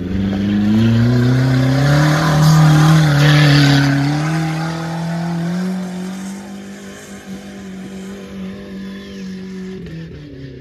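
Suzuki Jimny's engine revving hard as it ploughs through a deep mud bog, its pitch climbing over the first couple of seconds and then holding, with wheels spinning and flinging mud. The engine grows fainter after about six seconds as the jeep pulls away.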